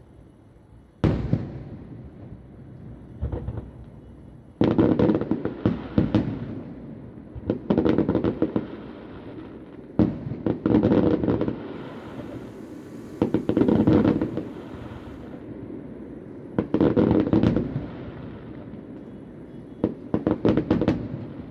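Fireworks display heard from about a kilometre away: clusters of rapid bangs and crackling salvos every few seconds, each trailing off in an echoing rumble.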